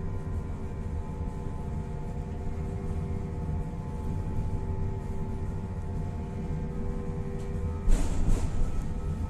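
Tatra-Yug K1M tram in motion: a steady low rumble under several steady whining tones. Near the end the whine stops and a louder, rougher noise takes over.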